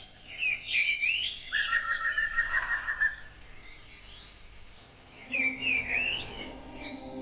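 Birdsong: two bursts of quick rising and falling chirps about five seconds apart, with a fast trill between them.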